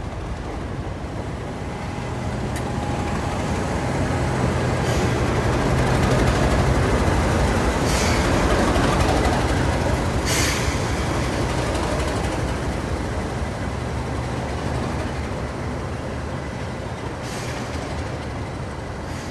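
Class 37 diesel locomotive with its English Electric V12 engine running as it hauls a train slowly past, the sound swelling to a peak around the middle and then fading away. Two short bursts of noise come about two seconds apart near the loudest point.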